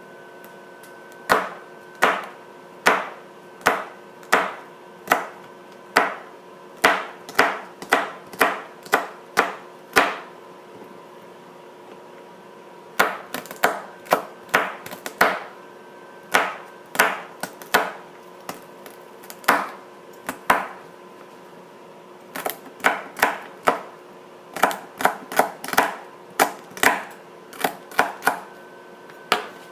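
Knife chopping celery on a cutting board: sharp single chops in irregular runs, broken by a couple of short pauses.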